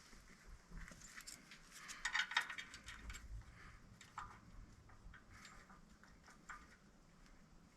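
Faint, scattered metallic clicks and clinks of hand tools and bolts being handled, with a busier cluster about two seconds in.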